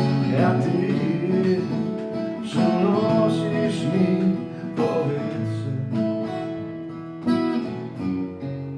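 Song outro on acoustic guitar, played as plucked and strummed chords, with some wordless vocal lines in the first half. The music fades gradually toward the end.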